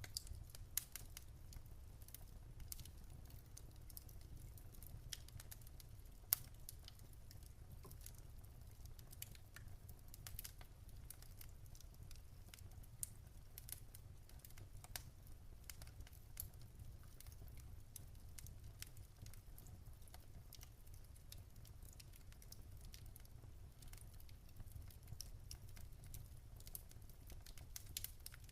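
Wood fire crackling in a fireplace: quiet, irregular small pops and snaps over a steady low rumble, with a few louder pops.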